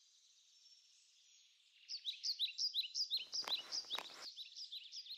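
Small birds chirping: faint at first, then from about two seconds in a quick run of short, high chirps, several a second. A brief rustling noise with a click comes near the middle.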